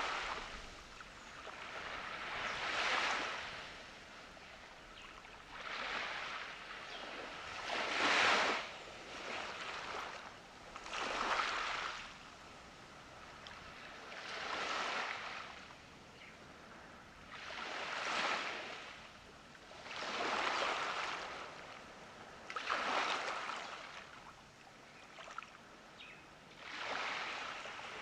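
Surf breaking and washing up on a beach: a wave swells into a hiss and fades again about every three seconds.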